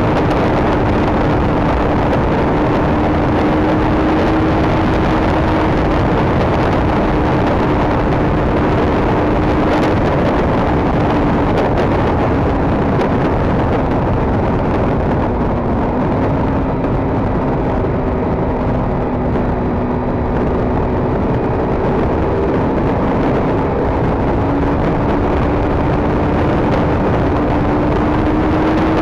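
KTM RC 390's single-cylinder engine running at a steady highway cruise under a constant rush of wind. Its note sags slightly past the middle and climbs again near the end as the bike speeds up.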